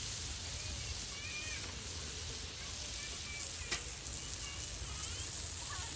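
Food sizzling steadily in a hot pan, with one sharp click a little past halfway.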